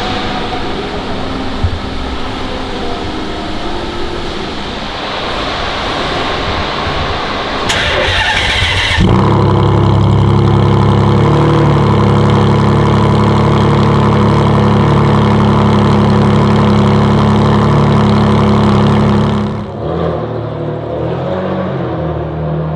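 Ferrari Enzo's V12 starting through a Tubi-style straight-pipe exhaust. A short starter burst comes about eight seconds in, then the engine catches and holds a loud, steady high idle for about ten seconds. Near the end it drops to a lower idle.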